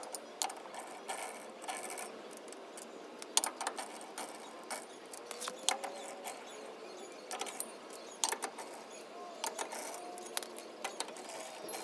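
Irregular metallic clicks and clinks of hand tools working on a pickup's wheel as it is being taken off for a drum brake job, with a few short high squeaks in the middle and near the end.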